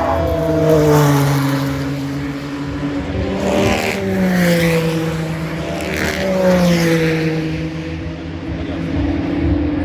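GT race cars passing at speed, each engine note dropping in pitch as it goes by: one just at the start, another about three and a half seconds in and a third about six seconds in.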